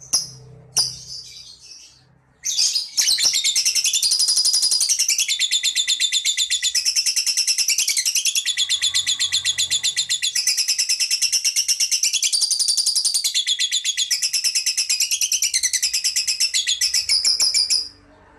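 Lovebird giving a long, unbroken run of very fast chattering, after a few short calls at the start; the chatter lasts about fifteen seconds and stops sharply near the end. This long chattering song is what Indonesian lovebird keepers call ngekek.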